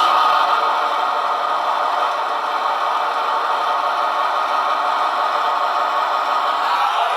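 Recorded diesel-locomotive engine sound from an ESU XL 5 sound decoder, played loud through the loudspeaker of an LGB V 200 model locomotive and running steadily.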